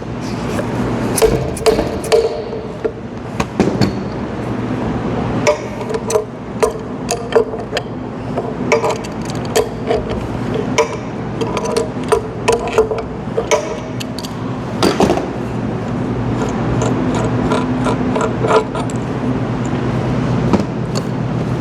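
Metal tools clinking and knocking against a paint pump's lower fluid section as its fluid suction valve is worked loose: many irregular sharp clicks and knocks over a steady low hum.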